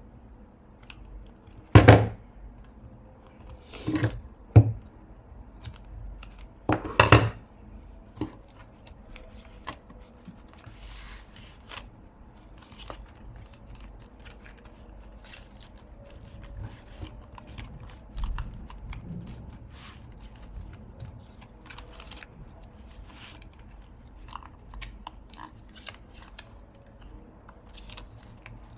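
Paper and card being handled and pressed down on a tabletop during papercraft gluing: rustling, crinkling and small clicks, with a few loud knocks in the first seven seconds.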